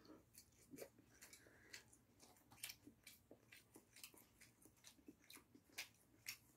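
Faint chewing of a mouthful of Korean rolled omelette (gyeran-mari), heard as soft, irregular mouth clicks.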